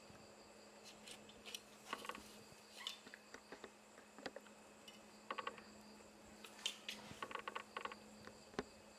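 A baby macaque eating: faint scattered mouth clicks and short high squeaks, in clusters about five seconds in and again around seven to eight seconds.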